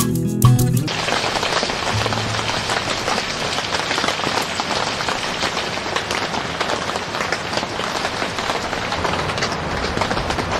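Music stops about a second in, then steady rain falls.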